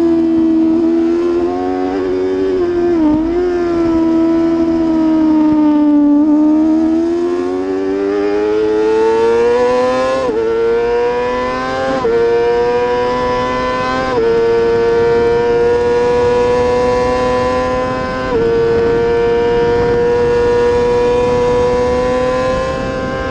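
Racing superbike engine at high revs, heard onboard: the revs dip and wobble about three seconds in and fall off as the bike slows, then climb again through a series of upshifts, each a short dip in pitch, about ten, twelve, fourteen and eighteen seconds in, before holding nearly steady near the end.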